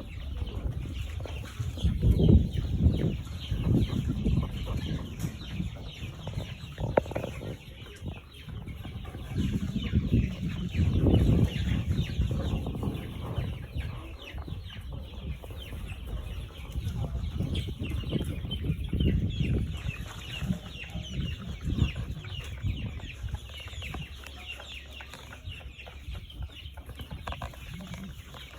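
A flock of three-week-old chickens peeping and cheeping continuously in quick, high chirps, with recurring bursts of low rumbling.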